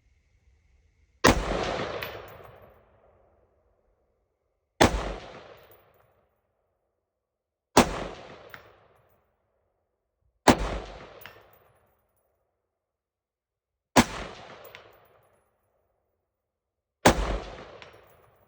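Six single rifle shots from a Sig Sauer M400 AR-15, fired a few seconds apart at a steel plate 200 yards away. Each shot is sharp and loud, with an echo that dies away over about two seconds.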